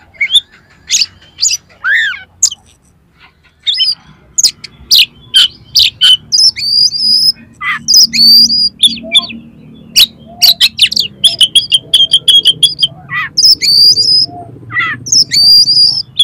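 Oriental magpie-robin (kacer) singing a fast, varied song full of harsh notes: short sharp clicks and rasping chatters mixed with high whistled phrases, some held briefly and some sliding down, in quick runs with short gaps.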